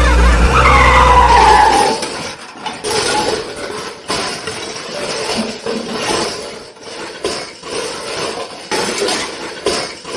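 Cartoon vehicle sound effects: a loud low engine hum with a falling whistle that stops about two seconds in, followed by a rough, uneven noise that pulses irregularly.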